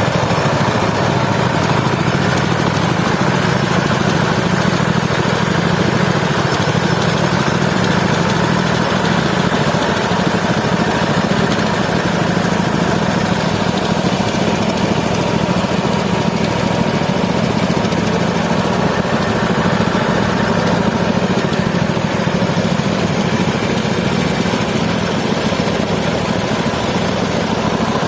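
Engine of a mobile band sawmill running steadily at an even speed.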